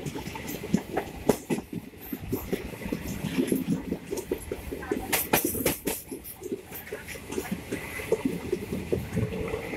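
Indian Railways passenger coach running, heard from on board: a steady rumble with wheels clattering over rail joints and points. A cluster of louder, sharper clacks comes about five seconds in.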